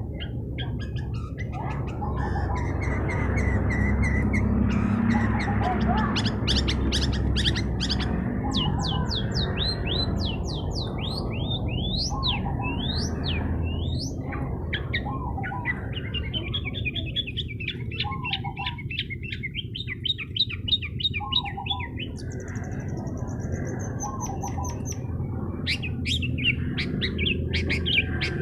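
Long-tailed shrike (cendet) singing vigorously: a long, varied run of fast repeated chattering notes and quick rising-and-falling whistles. A steady low background rumble lies beneath it.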